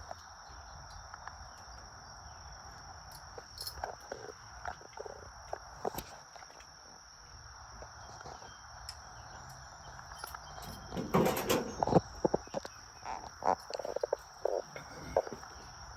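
Insects chirring steadily in the background, with scattered footsteps and knocks; about eleven seconds in comes a run of louder clattering knocks and thumps. No engine is running.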